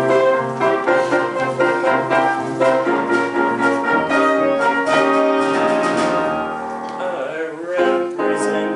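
Piano-led accompaniment playing a brisk show-tune introduction, with notes changing in a steady rhythm and a sliding run near the end.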